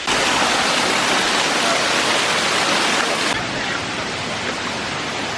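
Rushing water of a wide, rain-swollen waterfall: a loud, steady roar. It becomes a little quieter and duller about three seconds in.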